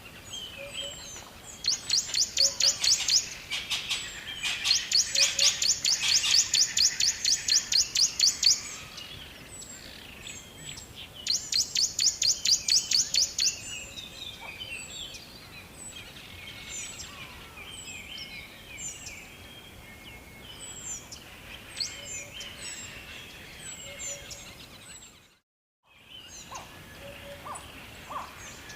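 Birdsong: one bird repeats a fast, high, evenly paced string of chirps in three bursts of a few seconds each, while other birds chirp and call more sparsely around it. The sound drops out to silence for about a second near the end.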